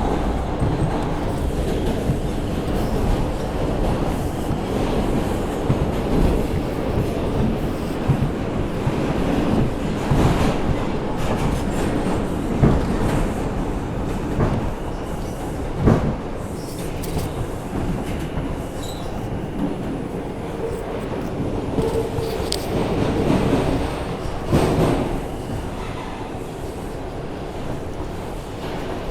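Subway car heard from inside while it runs between stations: a steady rumble of wheels on rail, broken by sharp clacks over rail joints and some wheel squeal. It gets slightly quieter near the end.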